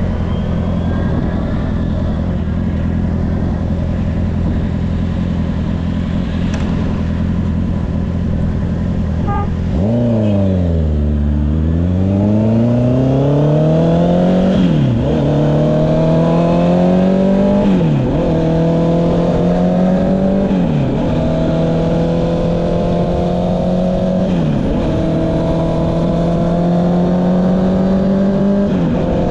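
Honda CB650R's inline-four with an Akrapovic exhaust idling steadily for about ten seconds. It then pulls away, revs climbing, and shifts up through the gears, with a quick dip in revs at each shift about every three seconds.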